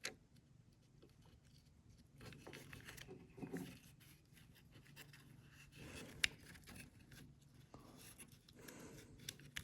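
Faint handling noises of small carburetor parts being fitted by hand: light scrapes and rubs, with one sharp click about six seconds in.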